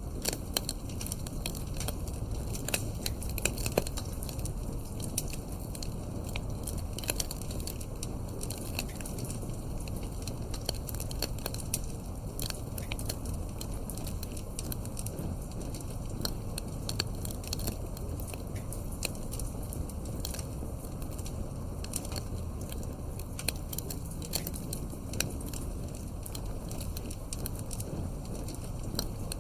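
Wood fire burning in a fireplace: a steady low rush of the flames with frequent small, irregular pops and crackles.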